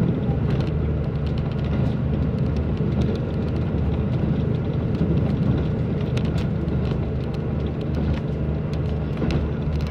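Diesel train running at speed, heard from the front of the railcar: a steady low engine drone and rumble of the running gear, with a few faint clicks.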